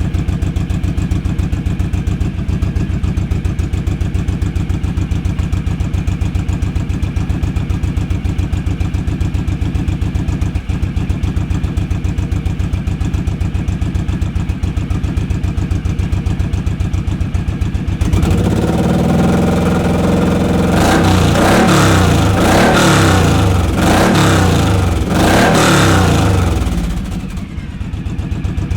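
2008 Suzuki C109R's big V-twin idling through its exhaust with a steady pulsing beat, then revved in a series of throttle blips, each rising and falling, about two-thirds of the way in, before dropping back to idle near the end.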